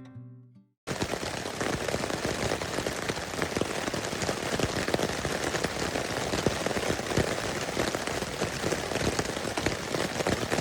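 Steady rain, with many close raindrops ticking and pattering on a surface near the microphone, starting suddenly about a second in. The last notes of an acoustic guitar fade out just before it.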